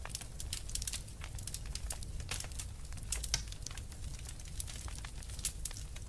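Wood fire crackling in a fireplace: frequent, irregular small pops and snaps over a steady low rumble of the flames.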